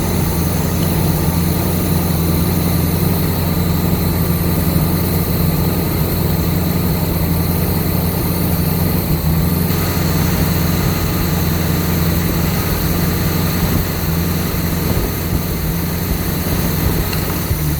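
Truck engine idling steadily on its first run after being resealed and fitted with a new water pump and timing chain, still untuned.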